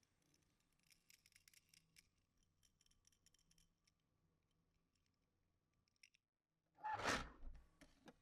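Faint small clicks from handling toy minicars and their packaging, then a short, louder rustling scrape about seven seconds in.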